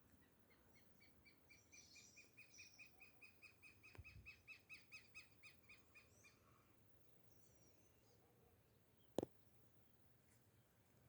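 A bird calling faintly: a rapid run of the same short high note, about four or five a second, swelling and then fading over about six seconds. Near the end a single sharp click, louder than the calls, stands out.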